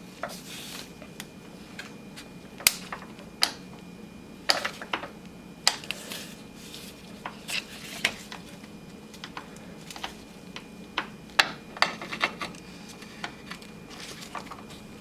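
A big screwdriver prying at the plastic clip that holds the transmission cooler lines: irregular sharp clicks and taps of metal tool on plastic and metal, about a dozen of them.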